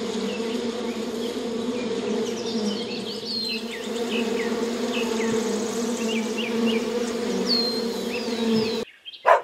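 Bees buzzing with a steady hum, with birds chirping in the background. The hum cuts off abruptly near the end.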